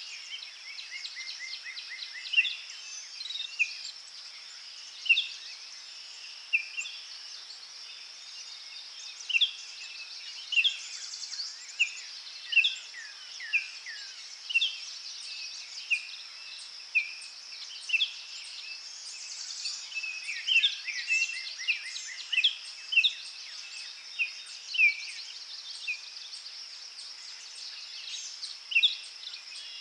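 Forest birds singing: many short, repeated chirps and calls from several birds, over a steady high-pitched hum.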